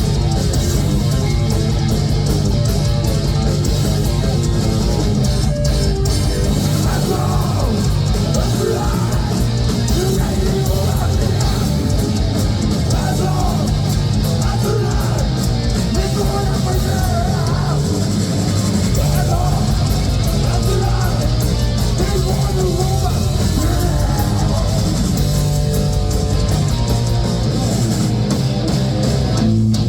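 Heavy metal band playing live: distorted electric guitars, bass and drum kit, loud and continuous.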